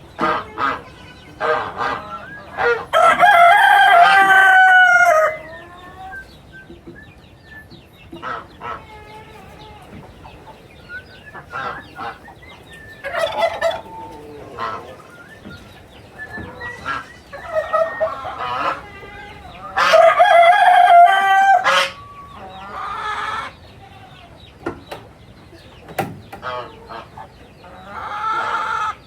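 A rooster crowing twice, each crow long and loud and dropping in pitch at its end, about three seconds in and again about twenty seconds in, with hens clucking in short calls between the crows.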